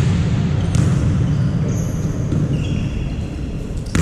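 Volleyball being struck during play on an indoor court: one sharp hit about a second in and another near the end, with sneakers squeaking on the floor in between. A steady low hum of the hall runs underneath.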